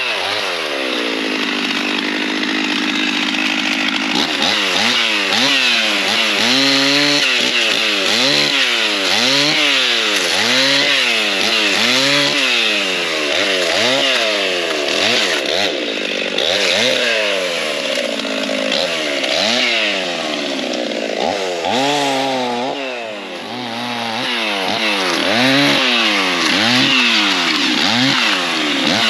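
Two-stroke chainsaw running loud, its pitch rising sharply at first and then climbing and dropping about once a second as the throttle is worked, with a brief dip in level near the end.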